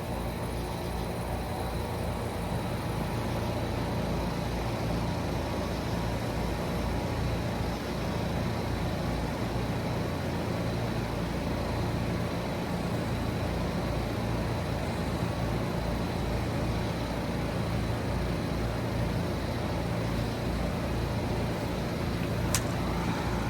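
Outdoor heat pump condensing units running in cooling mode: scroll compressors and condenser fans making a steady whirring hum with a low, even throb and a faint high whine. A single sharp click sounds near the end.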